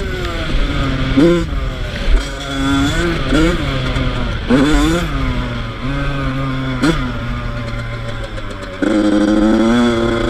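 Yamaha YZ85's two-stroke engine being ridden hard, revving up and falling back again and again as the throttle is worked. It gets suddenly louder about nine seconds in.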